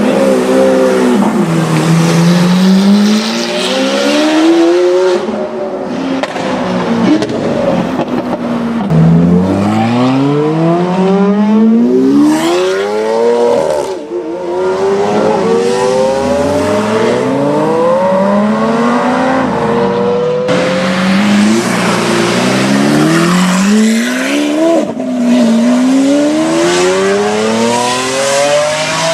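Lamborghini Aventador V12 through a loud Akrapovic exhaust, accelerating hard through several gears. The pitch climbs steadily and drops at each shift, and this happens again in a few separate pulls.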